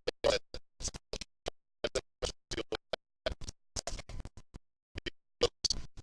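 Faulty, broken-up audio: the sound cuts in and out several times a second in short fragments of scratchy, rustling noise with dead gaps between them.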